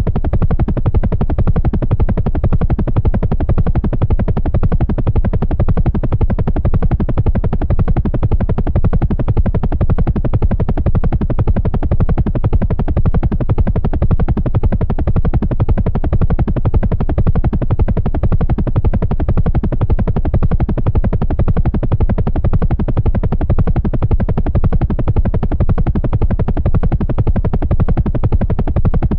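Helicopter running steadily, the main rotor blades beating in a rapid, even chop with the engine beneath.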